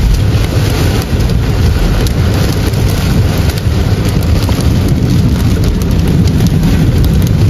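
Heavy rain on a moving car, heard from inside the cabin: a dense steady wash of rain and fine pattering over a loud low rumble of the car and tyres on the wet road.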